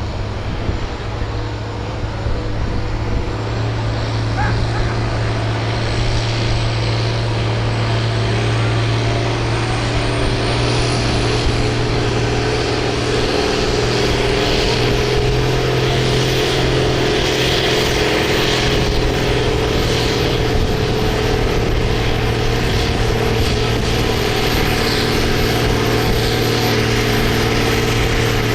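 Farm stock tractor's diesel engine running hard under load, pulling a sled down the track. A thin high whine climbs steadily over the first half and then holds.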